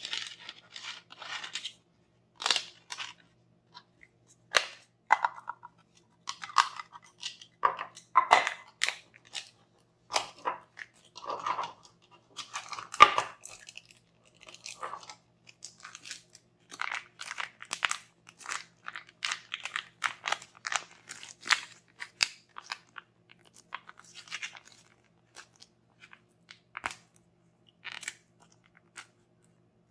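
Close-miked handling of toy packaging: an irregular run of crinkles, crunches and sharp clicks as plastic and cardboard are unwrapped and torn open.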